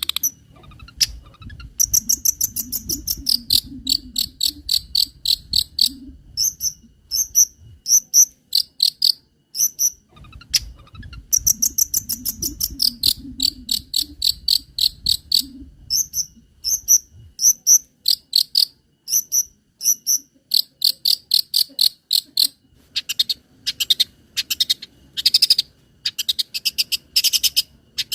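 Long-tailed shrike (cendet) singing: short high chirps in quick runs, several a second, broken by short gaps.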